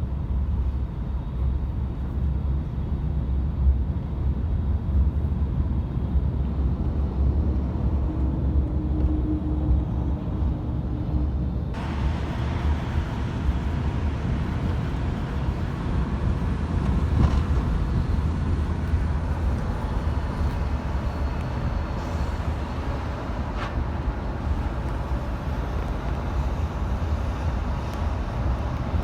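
Steady low rumble of vehicle noise heard outdoors. About twelve seconds in, a brighter hiss comes in abruptly.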